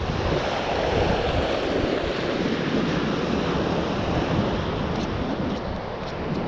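Steady rushing noise of wind on the microphone and flowing water, swelling and easing without a break.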